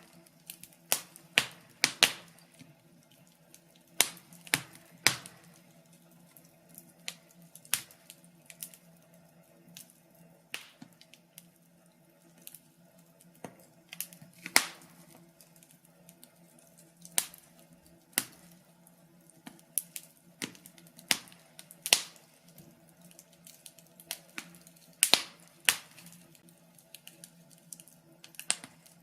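Fire crackling: irregular sharp pops and snaps, the louder ones every second or two, with many smaller ticks between them, over a faint steady low hum.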